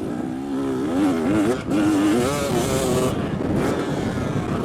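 KTM motocross bike engine being ridden hard around the track, its pitch rising and falling as the throttle is worked, with a brief break about a second and a half in.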